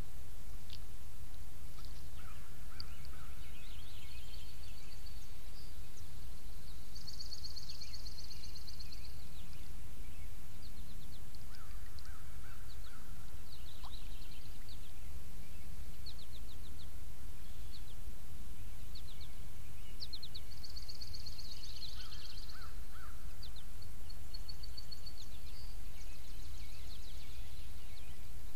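Wild birds calling and singing over a steady low rumble, with short high chirps throughout and two longer buzzy trilled songs, one about seven seconds in and one about twenty seconds in.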